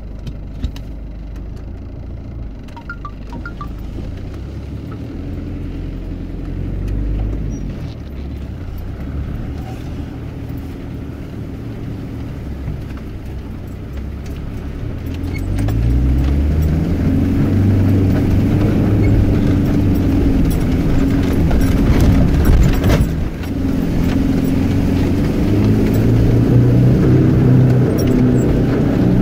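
4x4 vehicle's engine running as it crawls along a wet, muddy forest track, heard from inside the cab. About halfway through, the engine note rises and gets louder as it pulls through standing water.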